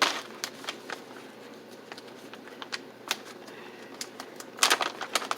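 Plastic packaging of individually wrapped Madeleine cakes crinkling and crackling in quick sharp ticks as it is opened, with a louder burst of rustling just after the start and again about four and a half seconds in.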